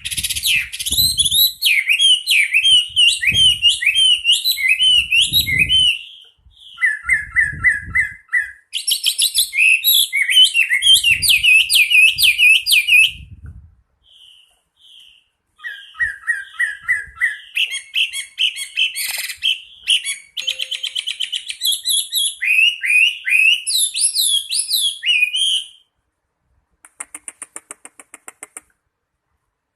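Chinese hwamei singing loudly: long, varied runs of sliding whistled notes and fast repeated-note trills, in three bouts with short pauses between them. Near the end there is a faint, quick rattling call.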